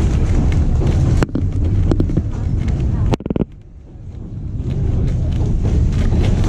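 Running noise of a passenger train heard from on board: a steady low rumble with wind on the microphone. It breaks off abruptly about a second in and again about three seconds in, then builds back up.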